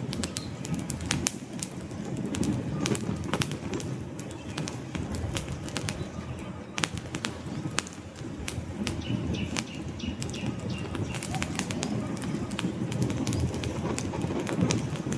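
Wood fire crackling, with frequent sharp pops over a steady low rumble of the flames. A faint thin high tone runs for a few seconds in the middle.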